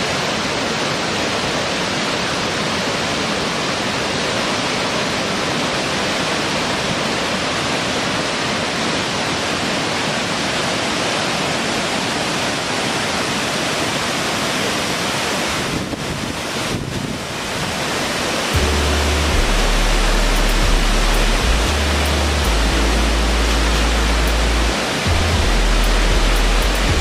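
Steady rushing noise of falling water. About two-thirds of the way through it dips briefly, and then low, sustained bass notes of ambient music come in beneath it.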